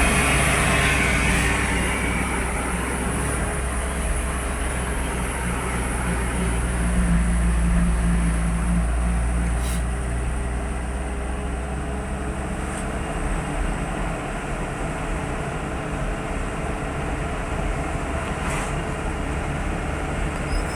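Toyota Dyna sand truck driving: its engine runs with a steady low rumble over a broad hiss of road noise, the engine note briefly stronger about a third of the way in.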